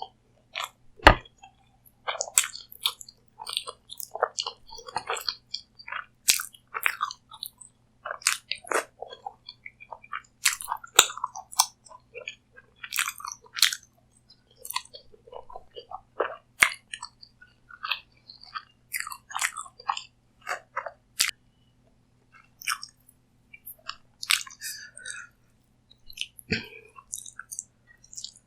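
Close-miked chewing and biting of food, with irregular crisp crunches and sharp mouth clicks that continue throughout, pausing briefly after about twenty seconds.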